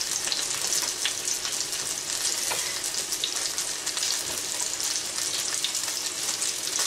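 Chicken frying in a pan, a steady sizzle, with a few light taps of a knife on a wooden cutting board.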